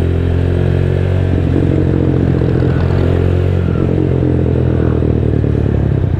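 Rusi Diablo 250 cc motorcycle engine running through a custom-made Orion muffler while riding, its pitch rising and falling with the throttle.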